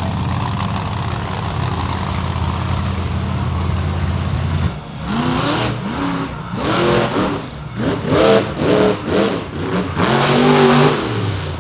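Monster truck engine running steadily with a low drone, then from about five seconds in revved again and again, the pitch climbing and falling with each blip of the throttle, with a longer rev near the end.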